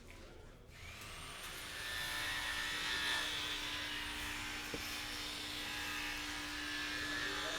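Electric jigsaw cutting plywood, starting about a second in and then running steadily with a buzzing whine.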